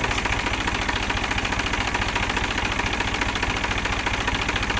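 New Holland 47 hp tractor's diesel engine idling steadily with an even, rapid pulse.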